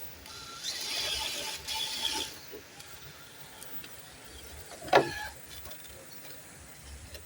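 Electric motor and gears of an RC rock crawler whining for about two seconds as it works up the trail. About five seconds in there is a single short sharp sound.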